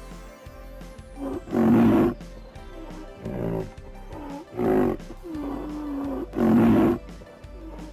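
Cattle mooing: three loud, short calls about two seconds apart, with quieter calls and one longer, lower held moo between them.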